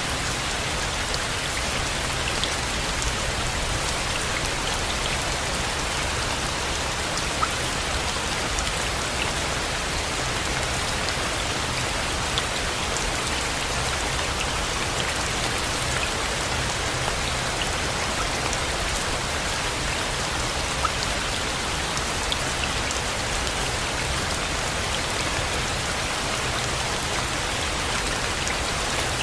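Steady rain falling, an even hiss with scattered drops ticking, a few of them sharper than the rest.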